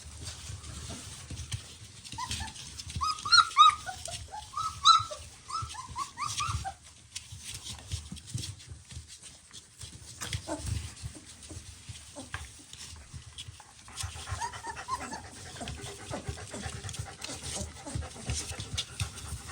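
Three-week-old German Shepherd puppies squeaking and whimpering as they jostle to nurse, in a flurry of short high squeaks a couple of seconds in and a smaller burst later.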